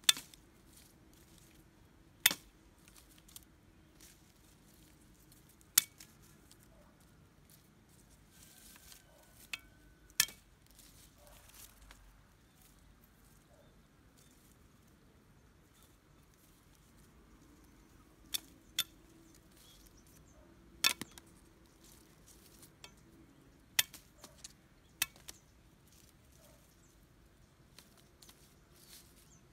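Sharp knocks and clicks at irregular intervals, about a dozen in all, some in quick pairs, over a faint quiet background.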